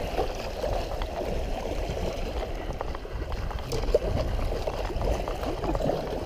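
River water running over a small rapid around a kayak: a steady rushing noise, with no single event standing out.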